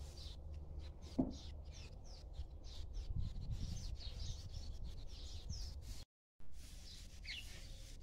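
Small birds chirping in a rapid string of short, high, down-slurred chirps over a low rumble. The sound drops out for a moment about six seconds in, then a few fainter chirps follow.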